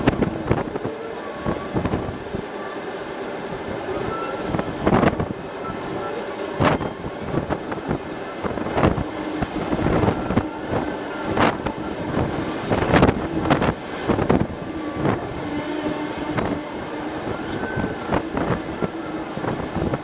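Wind buffeting the microphone outdoors: a dense rushing noise broken by many sharp knocks and a few short chirps.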